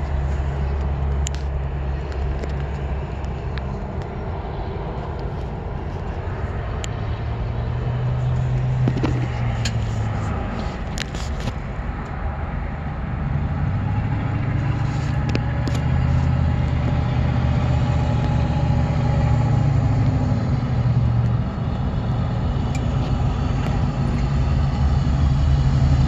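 A vehicle's engine idling steadily, heard from underneath the front end, a low even hum. A few light clicks about ten seconds in.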